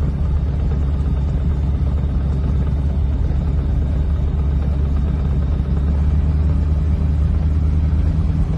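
Small motorglider's engine running steadily, a loud low drone heard from inside the cockpit.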